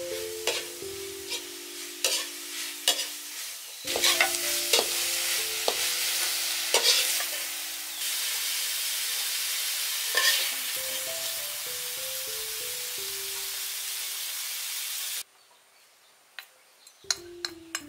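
Beef and Piper lolot leaves sizzling in a hot wok while a metal slotted ladle stirs and scrapes, with frequent sharp clinks of the ladle against the pan. The sizzling cuts off suddenly about fifteen seconds in, leaving a few light metal clinks.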